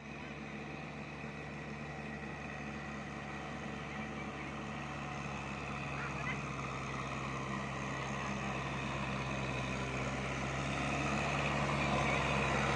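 Kubota tractor's diesel engine running steadily while plowing, with a constant low hum, gradually getting louder.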